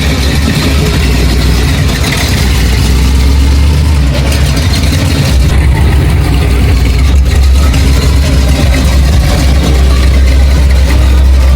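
A vehicle engine running steadily with a heavy low rumble, over a dense wash of noise.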